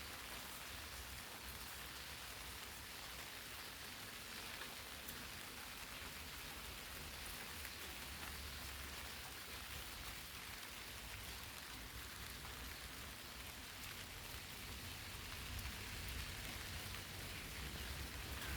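Steady rain falling on eggplant leaves: an even patter of raindrops, with a low rumble underneath.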